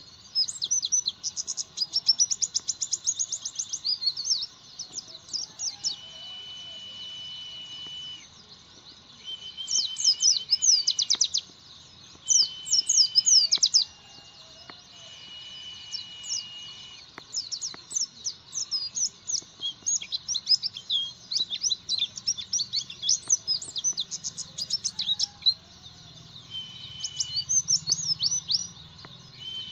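A pleci (white-eye) singing a fast, dense run of high chirps and twitters, with short pauses. Several times a steady high note is held for a second or two.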